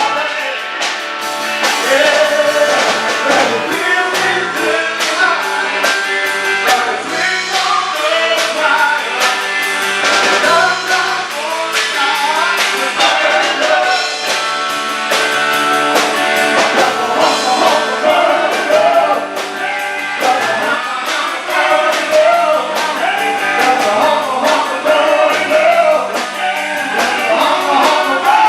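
Live band playing a rock-and-roll song, with a lead singer over electric guitar and drums.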